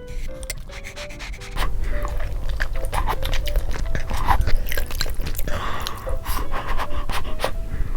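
Close-miked eating sounds: chewing and wet mouth noises of Buldak spicy noodles, with many short sharp clicks, over light background music.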